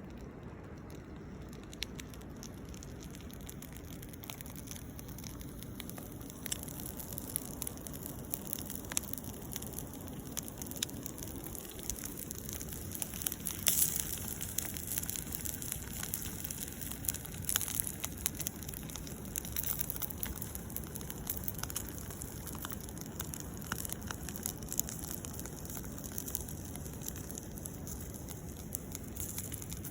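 Campfire crackling: irregular sharp pops and snaps over a steady low rush, growing busier a few seconds in.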